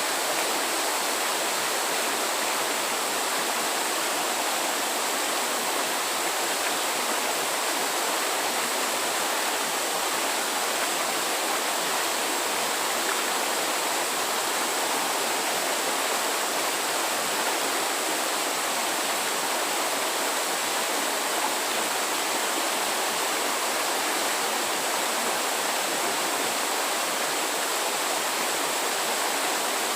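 Steady rushing of flowing water, like a stream, unchanging throughout.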